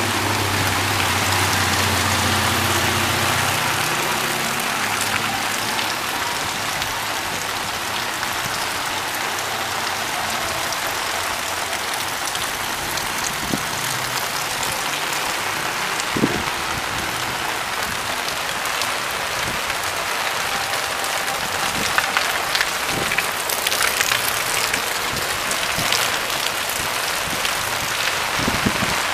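Heavy rain pouring onto a flooded street, a steady hiss of rain and running water. For the first few seconds a car's engine hums low beneath it, then fades; a few sharp taps come later.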